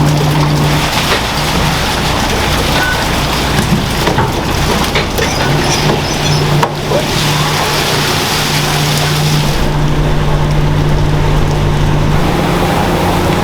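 Food-factory machinery running: a steady hum under a loud, even rushing hiss like spraying water. A little before ten seconds in, the high hiss drops away and a deeper rumble takes over.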